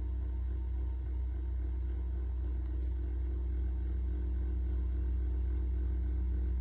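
Mustang 2056 skid loader's engine running steadily at an even speed, a low drone with no change in pitch.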